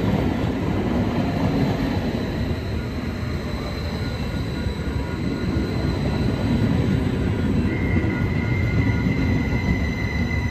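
Stadler KISS electric multiple unit standing at the platform, its onboard equipment running with a steady low rumble and several thin, steady high-pitched whining tones. A further high tone comes in about three-quarters of the way through.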